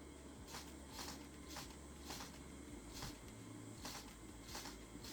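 Faint, sharp clicks or crunches, about eight of them spaced unevenly every half second to a second, over a low steady hum.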